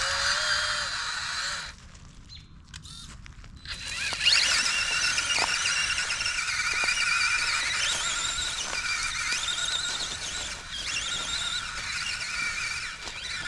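FMS K5 Blazer RC truck's electric motor and gearbox whining at a high pitch that wavers with the throttle. It stops for about two seconds, then winds back up with a rising whine and keeps running.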